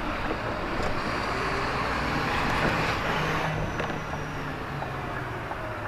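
Lorry engine running with road and traffic noise heard from inside the cab, swelling a little around the middle and easing towards the end.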